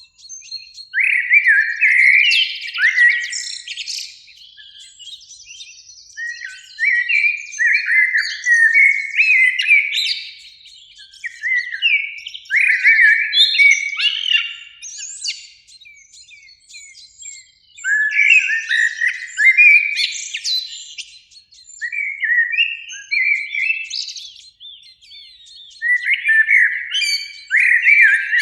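Eurasian blackbird singing: about six fluty song phrases, each a couple of seconds long and ending in higher twittering, with short pauses between them.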